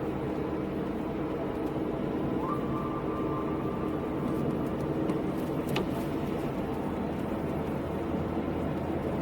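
Car driving in the rain: a steady engine hum under the hiss of tyres on the wet road.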